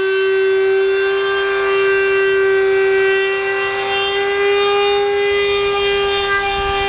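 A power tool's steady high-pitched whine as it cuts into a car's sheet-metal hood: one held tone that drifts slightly higher partway through.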